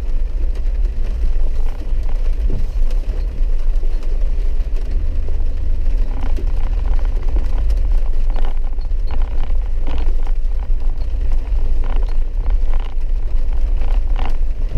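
Vehicle cabin noise while driving a dirt road: a loud, steady low rumble with scattered knocks and rattles from the rough track.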